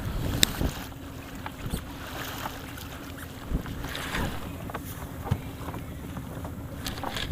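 Wind buffeting the microphone and water against an inflatable boat, under a steady low hum, with a few sharp knocks near the start and the end.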